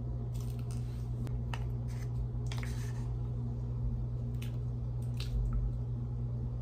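Dry cornstarch being chewed: a scattering of short crunches and clicks through the first five seconds or so, over a steady low hum.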